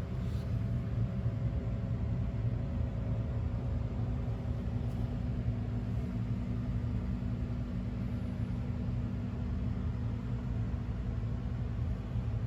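Honda CX650 Turbo's V-twin engine running at a steady idle: an even, low hum with no revving.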